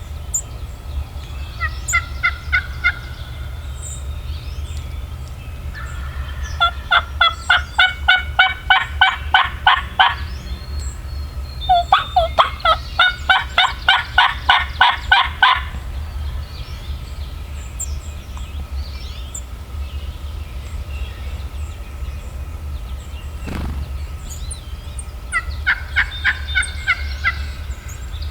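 Wild turkey yelping in four runs of evenly spaced notes, about four a second, the longest lasting three to four seconds. A steady low rumble lies underneath.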